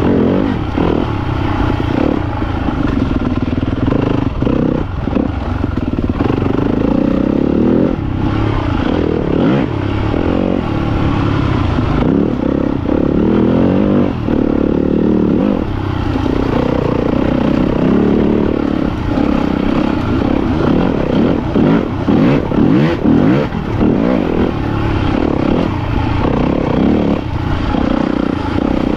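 Yamaha YZ250FX's four-stroke single-cylinder engine revving up and down as the dirt bike is ridden along single track, with short clattering over rough ground.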